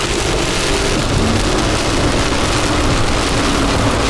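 Steady, loud hiss of heavy rain beating on a vehicle during a tornadic supercell, with a low steady hum underneath.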